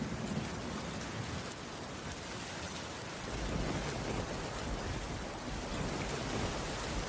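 Steady rain falling on a wooden cabin roof, an even hiss, with a low rumble of distant thunder coming in about three seconds in.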